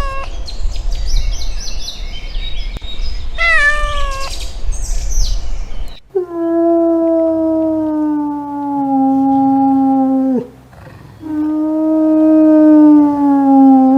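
Cats meowing: two short, high meows over a low background rumble. Then two long, drawn-out, low yowls, each lasting a few seconds and sagging slowly in pitch.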